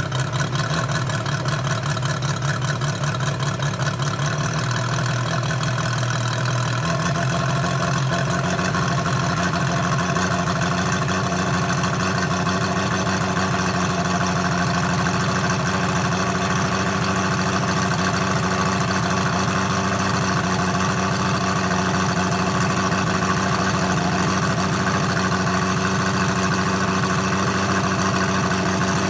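Moki 257 250cc seven-cylinder radial gas engine idling steadily while it warms up after a cold start. About seven seconds in, its note rises slightly and then holds steady.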